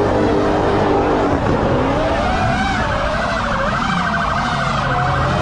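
Siren wailing, its pitch swinging up and down from about two seconds in, over the steady low rumble of car engines.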